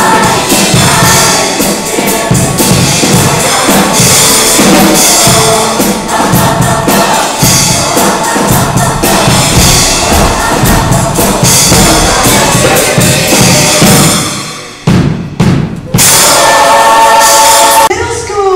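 Show choir singing with a band and drum kit behind them. A brief break with a few accented hits comes near the end, then the choir holds a final chord that cuts off.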